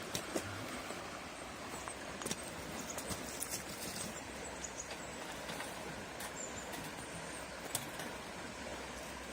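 Steady rush of a flowing river, with scattered light clicks and knocks over it.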